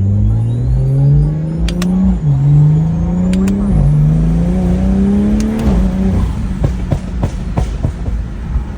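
BMW M340i's B58 turbocharged straight-six accelerating hard, its pitch climbing and dropping with two upshifts. The T51R-modified turbo adds a high whistle that rises as it spools. Near the end it lifts off to a lower steady note, with several sharp cracks.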